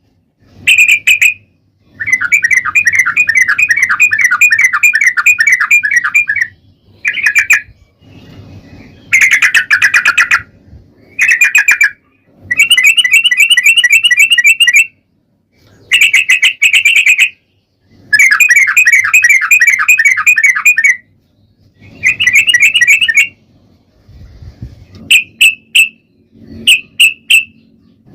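Yellow-vented bulbul (trucukan) singing in full voice: bursts of rapid, chattering trills, each one to four seconds long, with short pauses between them. A few short chirps come near the end.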